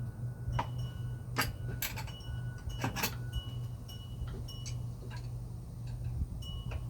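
Sharp, irregular metallic clicks and clinks of hand tools on generator bolts as they are worked loose, over a steady low hum. Most of the clicks fall in the first half.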